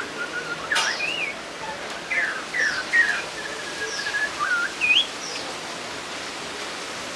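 Songbird singing a varied run of short whistled notes, rising and falling, with one longer level whistle about four seconds in, over a steady background hiss. A sharp click sounds just under a second in.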